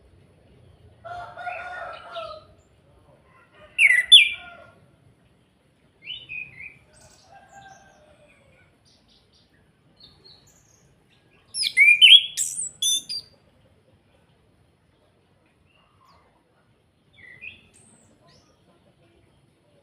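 Chestnut-capped thrush (anis kembang) singing in short, separate bursts of whistled, sweeping phrases with gaps between them, the loudest and most complex burst coming about twelve seconds in. About a second in, a lower-pitched call from another bird, likely domestic fowl, sounds for a second or two.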